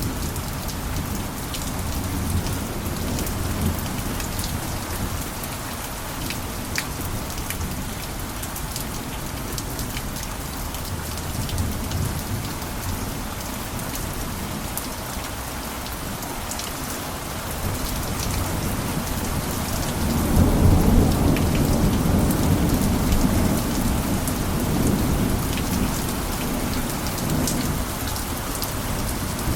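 Steady rain pattering on a cabin roof, with scattered sharp drop ticks. About two-thirds of the way through, a low rumble swells up and then eases off.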